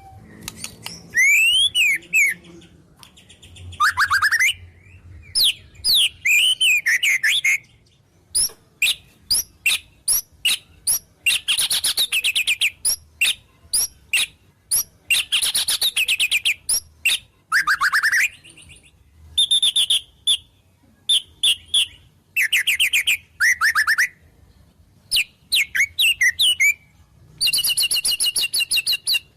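White-rumped shama (murai batu) singing a long, varied song: rapid trills, clear sweeping whistles and high chattering phrases, separated by short pauses. The song is full of mimicked wild-bird phrases (isian).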